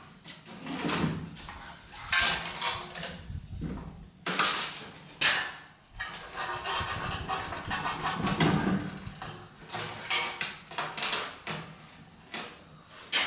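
ATV plastic body panels being unclipped and pulled off: irregular clattering and scraping of hard plastic, with several sharp knocks.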